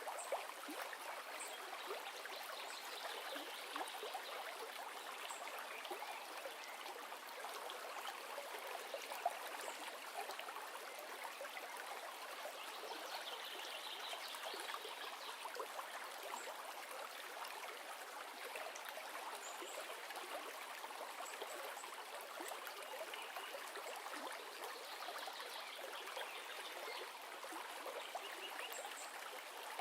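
River running: a steady, even rush of flowing water, thick with small splashes and nothing in the deep bass.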